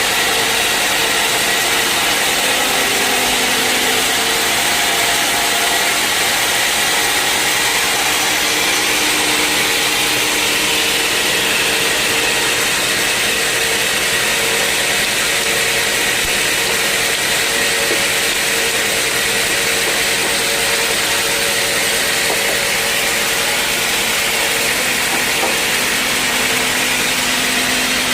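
Sawmill saw running steadily through a mahogany log, a constant loud whir with a faint steady hum and whine, unchanging throughout.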